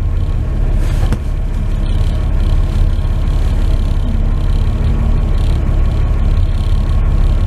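1949 Chevy truck's 235 straight-six running steadily while the truck drives, a low rumble of engine and road noise heard from inside the cab.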